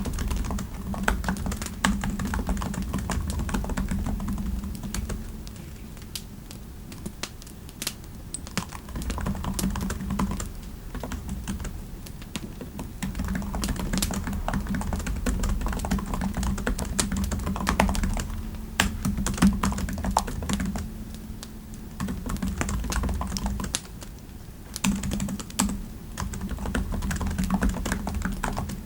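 Typing on a computer keyboard: runs of quick keystrokes, broken by a few short pauses.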